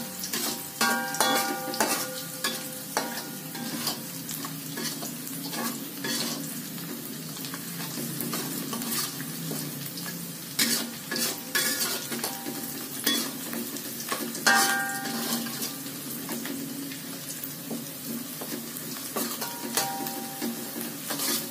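Chopped garlic and shallots sizzling in hot oil in an aluminium wok, frying until fragrant, while a metal spatula scrapes and clinks against the pan. A few sharper knocks set the wok ringing briefly, about a second in and again about two-thirds of the way through.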